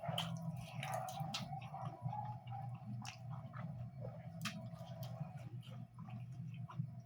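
A person eating curry and rice close to the microphone: wet chewing with many short mouth clicks and smacks, over a steady low hum.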